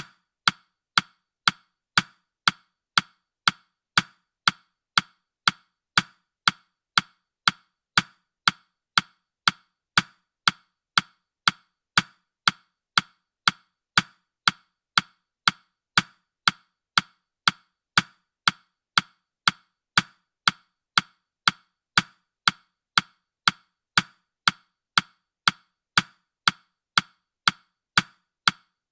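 Countdown-timer ticking sound effect: sharp, evenly spaced ticks at about two a second, steady throughout.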